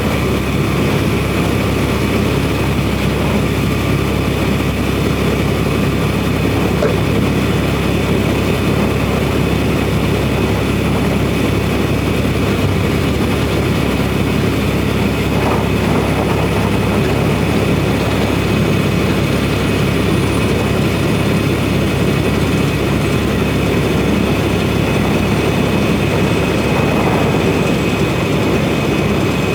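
Semi truck cab interior while driving: a steady drone of engine and road noise that does not change.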